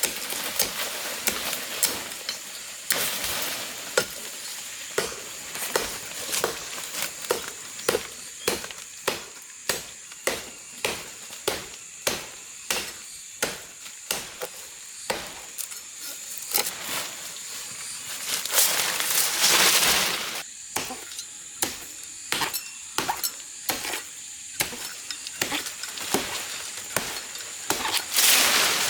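A blade chopping with sharp, regular strikes, about two a second, broken by a few longer rustling bursts.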